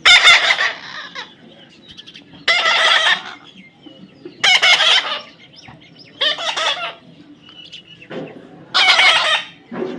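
A parrot calling loudly, five short harsh calls about two seconds apart.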